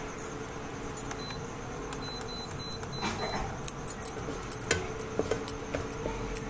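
Khoya sizzling softly as it fries in ghee in a non-stick kadai, with a plastic slotted spatula scraping and stirring through it. A few sharp clicks of the spatula against the pan come about two-thirds of the way in.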